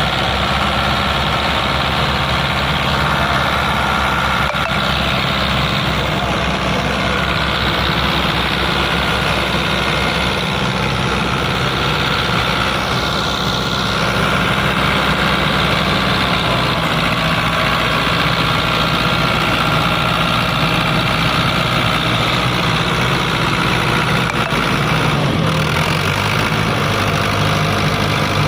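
Fiat 640 tractor's diesel engine running steadily, its note changing near the end.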